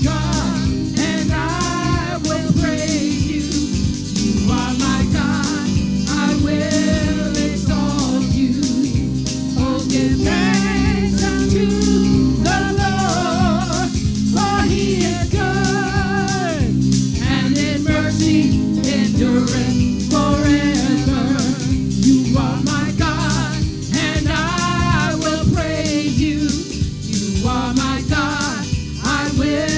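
Gospel song: voices singing a melody in phrases over steady instrumental accompaniment.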